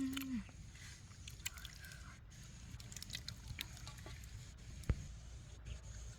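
Scattered small clicks and taps, with one sharper knock about five seconds in, over a low steady rumble.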